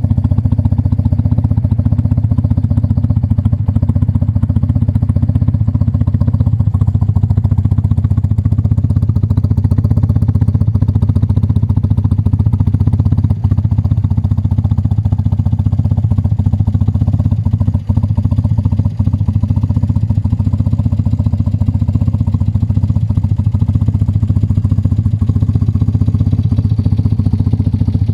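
BMW R80's air-cooled flat-twin boxer engine running steadily at an unchanging speed, with a few brief dips in level around the middle.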